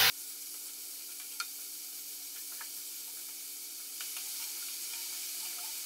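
Minced beef sizzling steadily in a nonstick frying pan as it is stirred, with a few faint clicks of the stirring utensil against the pan.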